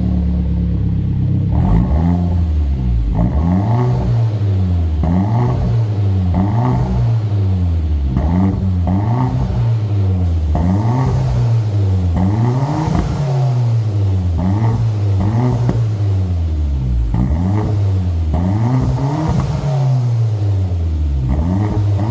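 Hyundai Genesis Coupe 2.0's turbocharged four-cylinder engine through a custom end exhaust, idling briefly and then revved again and again in quick rises and falls, about one every second and a half.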